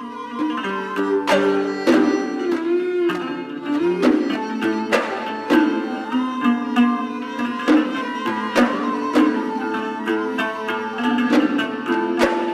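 Bahraini sawt ensemble playing: a melody on bowed and plucked strings over a steady run of sharp drum strokes.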